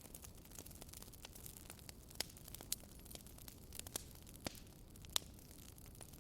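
Wood fire burning in a fireplace: a low steady hiss with irregular sharp crackles and pops, the loudest about two, four and five seconds in.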